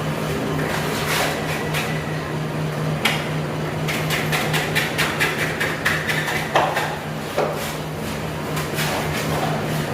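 Hammer blows, some spaced out and then a quick run of about four or five strikes a second through the middle, over a steady low hum.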